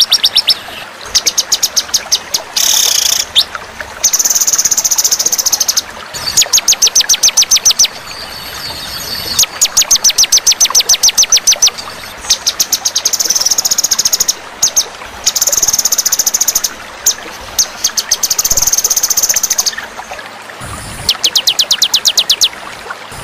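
Songbird singing in phrases of fast, high, evenly repeated trill notes, about ten a second, each phrase lasting one to two seconds with short pauses between, the chattering style of a masteran song-training recording for murai batu.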